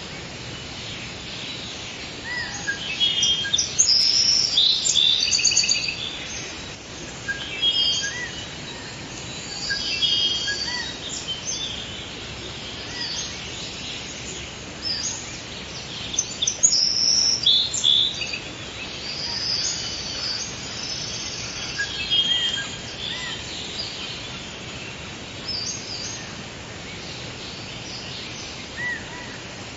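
Forest ambience: several birds singing and chirping, short repeated calls and trills coming in bursts throughout, over a steady background hiss.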